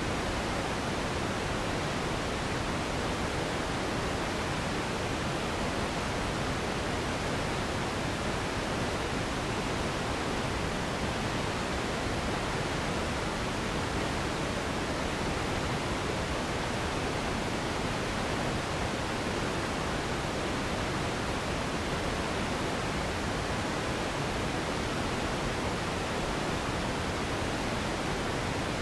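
Steady, unchanging noise: an even hiss with more weight in the lower range, like pink noise, with no breaks or changes.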